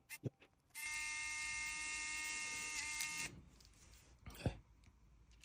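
Small electric screwdriver driving a tiny screw: a steady high motor whine for about two and a half seconds, dipping briefly in pitch just before it stops. Light clicks come before it and a short knock after.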